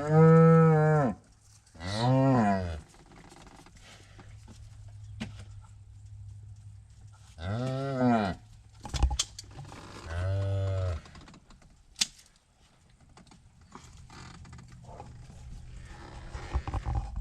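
Red Angus cattle mooing: four separate moos, each rising and falling in pitch, the first and loudest right at the start, another about two seconds in, then two more around the middle. A few sharp clicks and knocks come between the calls.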